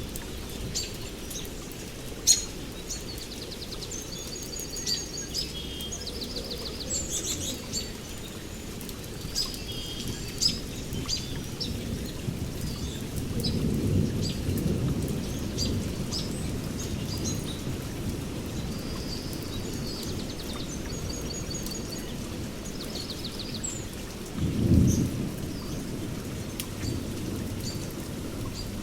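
Several birds chirping and trilling, short calls coming thick and fast over a steady low rumble. The rumble swells for a few seconds around the middle and again more loudly for a moment near the end.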